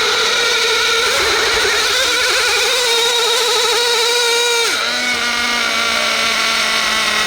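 RC pulling vehicle's motor whining under load, its pitch wavering, then dropping sharply about four and a half seconds in as the motor slows, and running on at the lower pitch.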